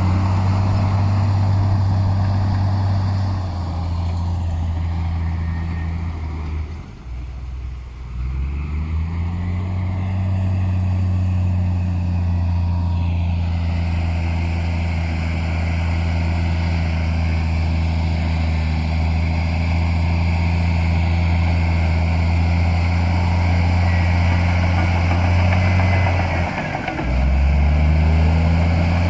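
Heavy diesel engine of earthmoving machinery running steadily under load. Its note sags twice, about a quarter of the way in and again near the end, then picks back up.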